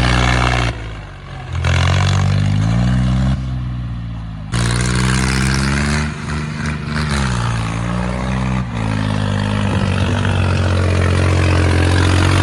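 Tractor's diesel engine running hard, its revs rising and falling several times. There are two abrupt drops in level in the first few seconds.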